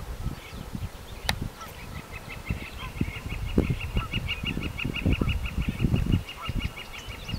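A bird calling in a quick, even series of short high notes, about six or seven a second, starting about two seconds in, over a low, uneven rumble. A single sharp click a little after one second.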